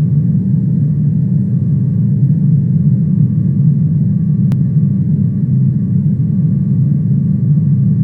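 Steady low rumble of airliner cabin noise from inside a passenger jet, with a faint steady high tone above it and a single faint tick midway.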